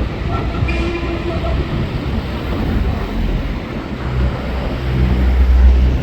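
Railway train running past close by: a loud, continuous rumble that swells about five seconds in, with a brief faint squeal about a second in.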